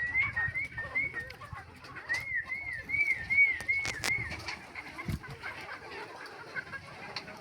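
Birds calling in a poultry yard: a run of wavering whistled notes, several a second, rising and falling. There is a sharp click or knock about four seconds in.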